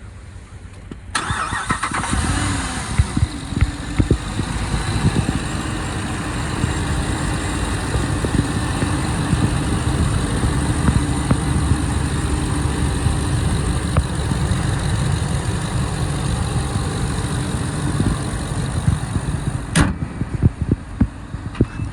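2018 Ram 3500 HD's Hemi V8 gasoline engine cranking and catching about a second in, rising briefly in pitch as it fires, then idling steadily. A single sharp click comes near the end.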